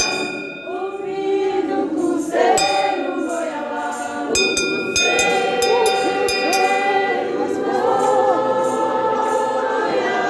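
Choir singing a gospel song, several voices holding long notes in harmony.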